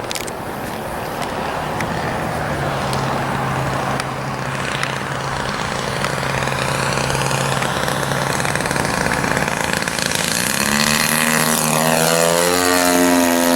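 The 50cc petrol engine and propeller of a large radio-controlled airplane drone steadily in flight. Near the end the engine note grows louder and rises in pitch.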